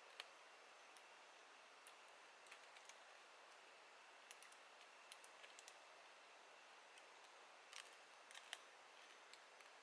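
Near silence with a faint steady hiss and scattered faint, sharp clicks and ticks at irregular intervals.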